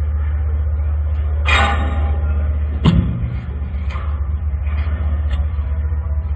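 Deep steady rumble of a large ship launch, with a rush of noise about a second and a half in and a sharp bang about three seconds in.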